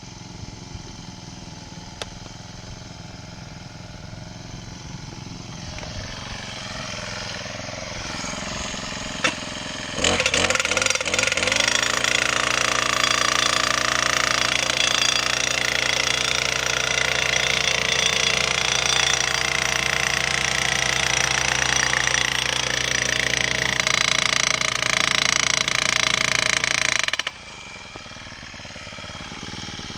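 Small petrol engine running: it rises slowly at first, then opens up to high revs about ten seconds in, holds there steadily, and shuts off suddenly near the end.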